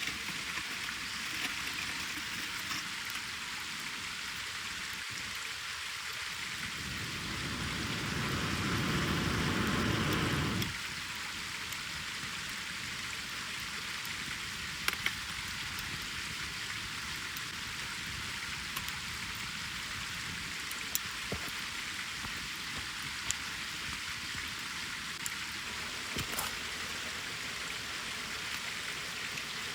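Wood campfire burning in a fire pit: a steady hiss with scattered sharp crackles. A louder rushing noise swells for about four seconds early on, then cuts off suddenly.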